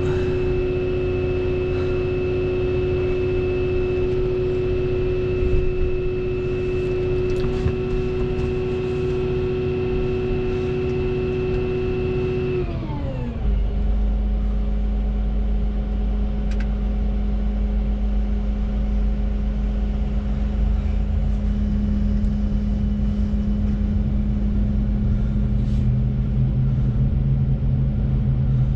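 Volvo 235EL excavator running steadily at high revs with a whine. About halfway through the revs drop quickly and it settles into a lower, steady drone with a deeper rumble.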